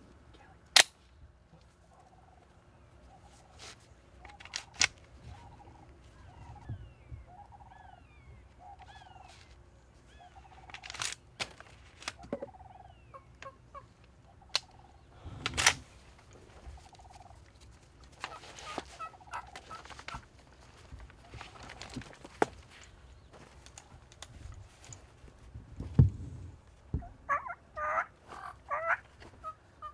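Wild Osceola turkeys calling close by: a run of about a dozen short, evenly spaced notes in the first ten seconds, then rapid broken gobbles in the last few seconds. Several sharp clicks and snaps are scattered through.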